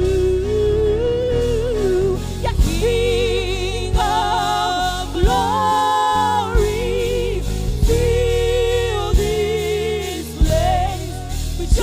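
Live gospel worship music: a sustained vocal line with vibrato, sung without clear words, over a steady keyboard and bass backing.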